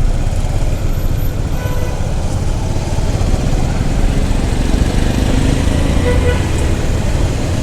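Motorcycle riding in city traffic: steady engine and wind rumble, with a few faint horns from other vehicles around the middle.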